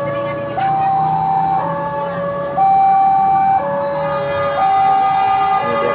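Electronic two-tone warning alarm switching back and forth between a low and a high tone, each held about a second.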